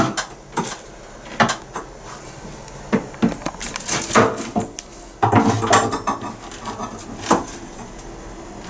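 Irregular knocks, clatters and scrapes of cut drywall being pried open and handled, with several sharp knocks and two busier stretches of scraping.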